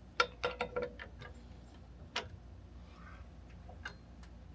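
A handful of sharp clicks and taps from tools handled on a miter saw's blade and arbor bolt: four or five quick ones in the first second, one more about two seconds in.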